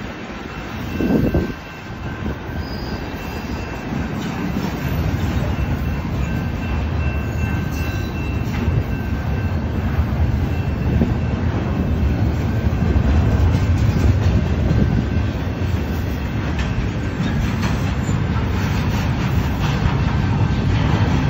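Double-stack intermodal freight cars rolling past on the rails: a steady rumble and rattle of wheels and couplings that grows gradually louder.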